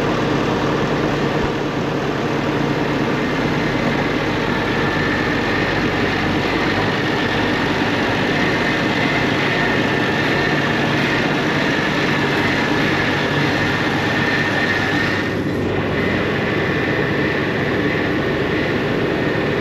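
Loud, steady machine drone with a constant whine, like an engine running without change.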